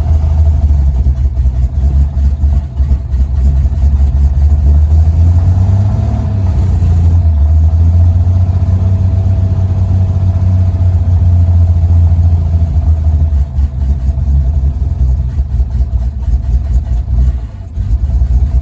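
A vehicle engine running steadily with a deep rumble, rising briefly about six seconds in and dipping near the end.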